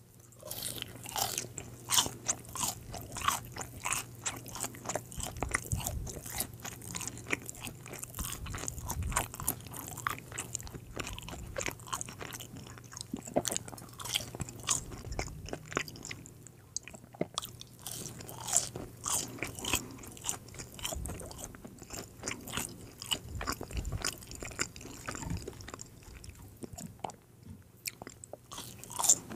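Crispy french fries being bitten and chewed right at a microphone: a quick, irregular run of sharp crunches.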